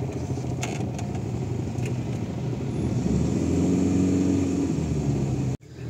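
Car engine running, heard from inside the cabin while driving slowly; the engine note rises and grows louder about three seconds in, then cuts off abruptly near the end.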